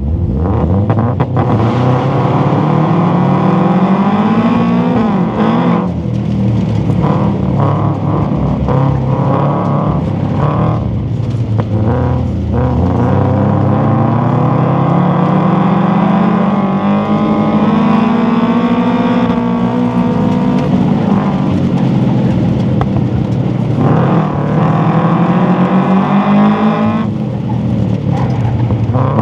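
Car engine driven hard on a run, its pitch climbing under acceleration and dropping again several times as it goes through the gears and slows for corners.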